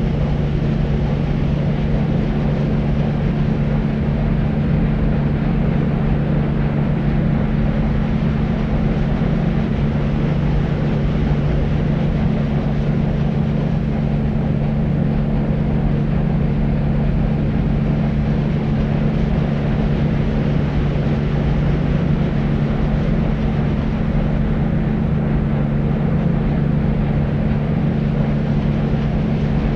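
Steady deep white noise, weighted toward the low end, with a low even drone under the hiss and no change in level.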